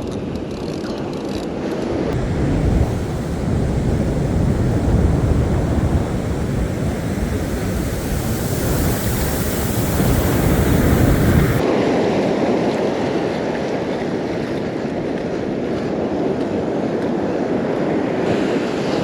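Surf washing on the beach, a steady rush of waves. Wind buffets the microphone with a heavy low rumble until a little past halfway, where the rumble stops suddenly.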